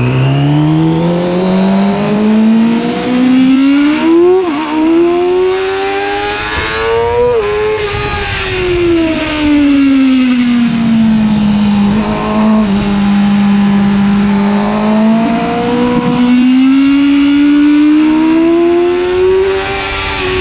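Yamaha YZF-R6's 600 cc inline-four racing engine at high revs: it climbs through the gears with a short dip at a shift about four seconds in, peaks near seven seconds, falls away as it slows, and rises hard again in the last few seconds.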